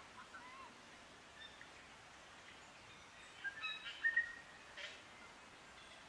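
Native New Zealand forest birds calling over a faint hiss of background: a few soft notes at the start, then a short run of clear whistled notes a little past halfway, loudest about four seconds in, followed by a brief harsher call.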